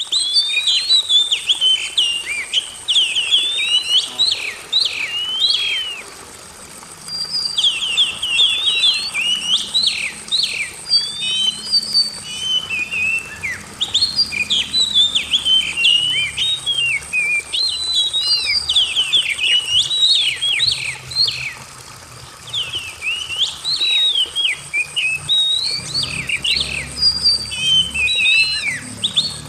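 Oriental magpie-robin (kacer) singing, in rapid phrases of sharp whistled notes sweeping up and down. The song pauses briefly about six seconds in and again about twenty-two seconds in.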